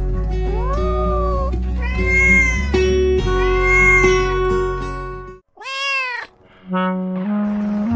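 Cartoon cat meowing about four times, each call rising and falling in pitch, over light background music. The music cuts out for a moment near the end, leaving the last meow on its own.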